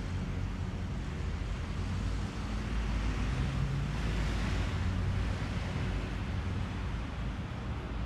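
Strong wind buffeting an action camera's microphone, a constant deep rumble, with a broad rushing hiss that swells about halfway through and fades again.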